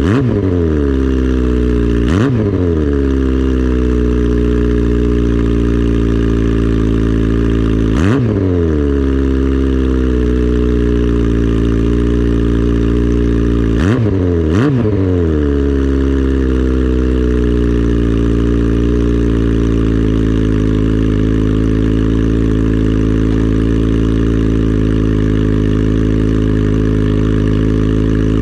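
2003 Yamaha R1's inline-four engine idling just after a cold start, blipped to quick revs about four times and falling back to idle each time, twice in quick succession around the middle.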